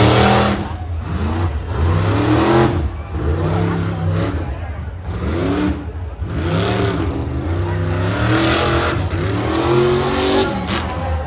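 A rough truck's engine revving hard again and again over an off-road obstacle course. The pitch rises and falls about once a second over a steady low rumble.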